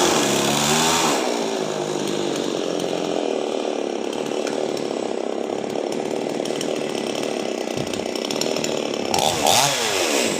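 Chainsaw running and cutting into a coconut palm trunk. Its engine pitch rises and falls in the first second and again near the end, with a steady cutting noise in between.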